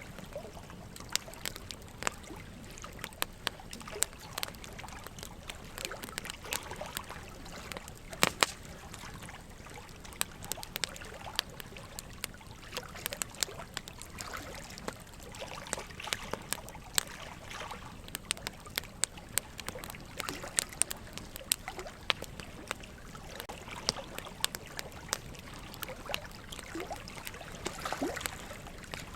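Wood fire crackling, with irregular sharp pops (the loudest a double pop about 8 seconds in), over a steady trickle of running water.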